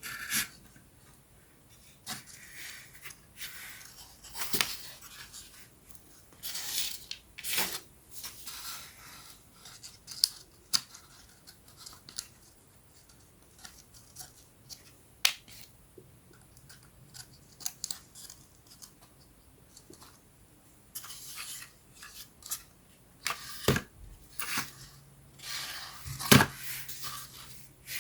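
Thin wooden puzzle pieces being handled and fitted together: irregular small clicks, scrapes and short rasping rubs of wood on wood, with a couple of sharper knocks near the end.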